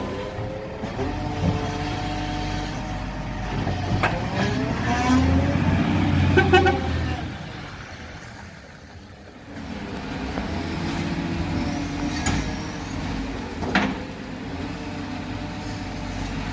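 Heavy truck engine running, rising in pitch as it revs between about four and seven seconds, easing off around eight to nine seconds, then running steadily again. A single sharp knock sounds near the end.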